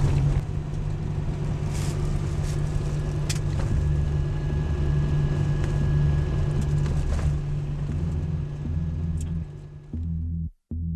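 Car driving on the road, its engine and road noise heard from inside the cabin as a steady low rumble. The rumble fades near the end, and electronic music with a chopped, pulsing beat starts in the last second.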